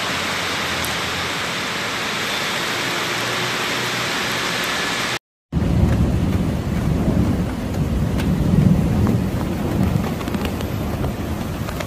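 Heavy rain pouring down in a steady hiss. After a brief break about five seconds in, the downpour comes back louder, with a deep, uneven rumble underneath.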